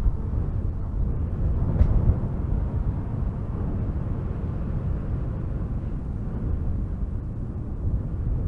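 Strong wind gusting through spruce trees: a steady low rush that swells and eases, with one faint short crack about two seconds in.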